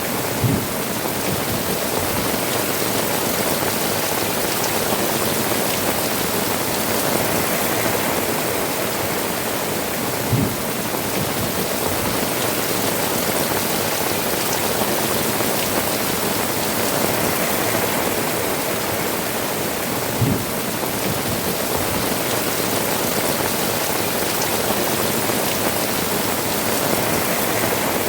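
Heavy rain falling steadily on tiled roofs, with water running and dripping off the eaves. Three brief low thuds stand out, about ten seconds apart.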